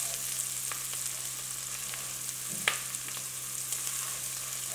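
Diced onions and garlic sizzling in a little bacon grease in a nonstick pot, stirred with a silicone spatula that gives light scrapes and taps, with one sharper tap a little over halfway through.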